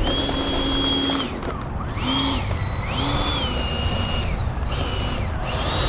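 Electric ducted-fan RC jet spooling up and down: a high fan whine rises to a steady pitch, holds, then falls away, several times over as the throttle is opened and closed, over a steady low rumble.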